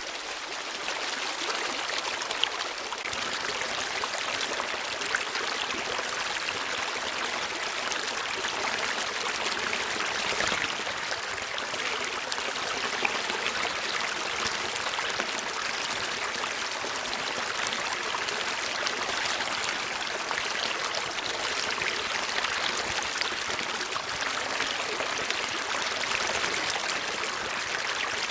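A stream of water flowing steadily with an even rushing sound, broken by a few faint ticks.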